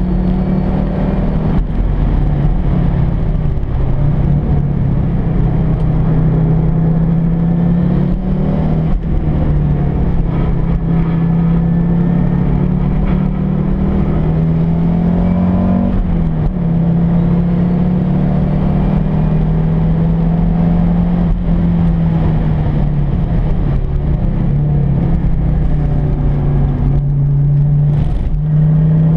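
Cabin sound of a 1991 Audi quattro's built RS2 turbocharged 2.2-litre five-cylinder engine under hard load on track. The engine note climbs and falls back several times as the car is driven through the gears and corners.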